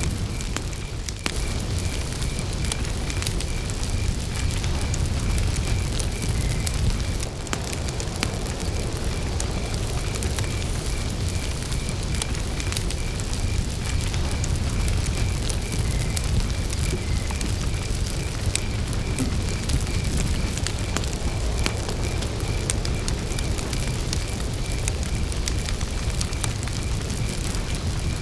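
Wood campfire burning, a steady low rumble scattered with sharp crackles and pops. Behind it, a faint chirp repeats steadily at one pitch.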